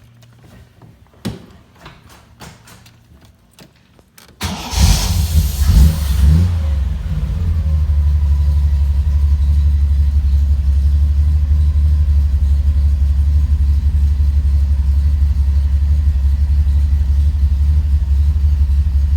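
1976 Triumph TR6's 2.5-litre straight-six cold start: a few faint clicks, then about four seconds in the engine catches and runs up briefly before settling into a steady idle.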